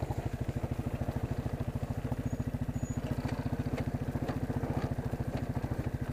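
Four-wheeler (ATV) engine running steadily at low revs, an even putt of about a dozen pulses a second. It is being ridden in fourth gear, the wrong gear for the slow trail.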